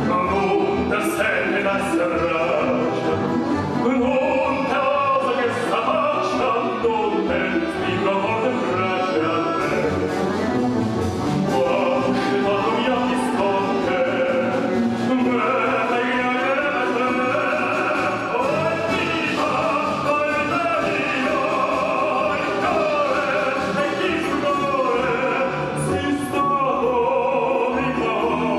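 Live orchestra playing, with a singer's voice carrying a melody over the accompaniment.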